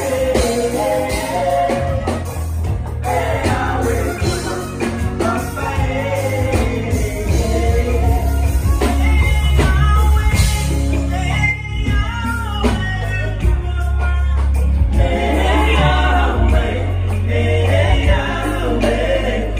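Live band playing with a singing voice over a heavy bass line and drums.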